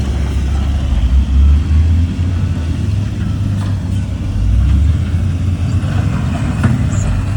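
Diesel engine of heavy earthmoving equipment running steadily with a deep, loud rumble, with a few faint knocks over it.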